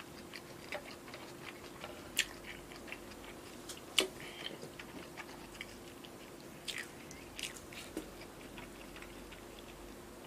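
Close-miked chewing of soft food, with scattered short wet mouth clicks a few times a second.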